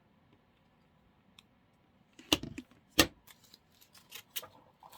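Two loud, sharp clicks a little after two seconds in, then a run of lighter clicks and rustling as artificial flower stems and craft tools are handled.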